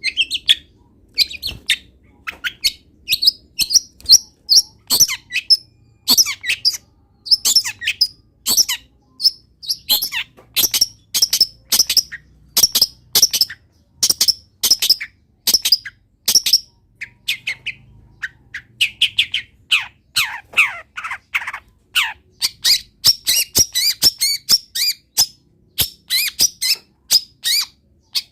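Cendet (long-tailed shrike) singing a fast, unbroken string of short, sharp high chirps and harsher notes, packed with mimicked calls of wild birds. Around two thirds of the way through it drops briefly into lower, falling notes.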